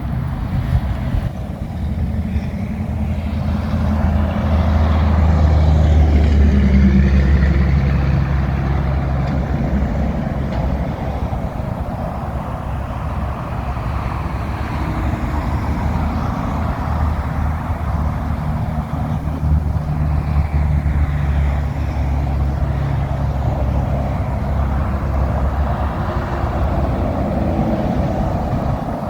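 Semi tractor-trailers passing on a wet highway: diesel engines pulling under load, with the hiss of tyres on the rain-soaked road. The sound swells loudest about six seconds in and again around twenty seconds.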